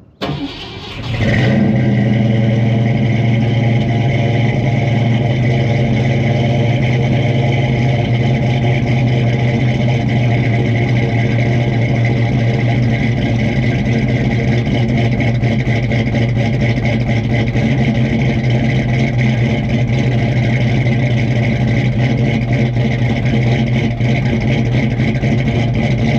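A car engine starts about a second in, then runs at a steady speed with no revving.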